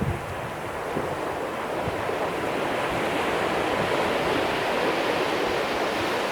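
Ocean surf washing ashore: a steady rush of water that swells slowly and eases off again.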